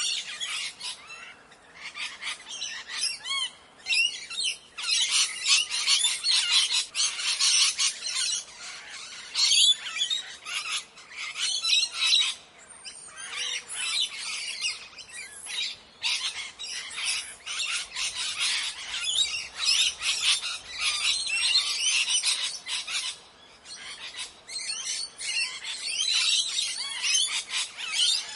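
A flock of parrots squawking and chattering, many overlapping calls with a few short lulls.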